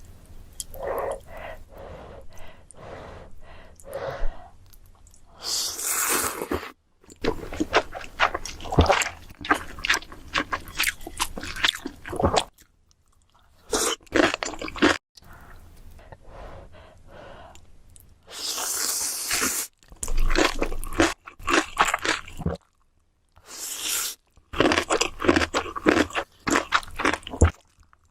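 Close-miked mukbang eating sounds: crunchy bites and chewing, with a few loud hissing bursts, in short stretches that cut off abruptly from one clip to the next.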